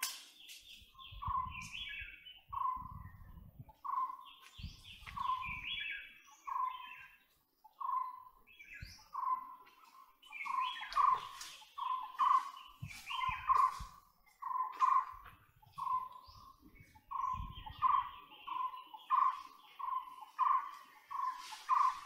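Forest birdsong: one bird repeats a short call note about once a second, quickening to about two a second from halfway, over higher chirps from other small birds.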